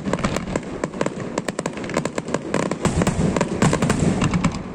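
Aerial fireworks bursting in a rapid string of sharp bangs, thinning out near the end.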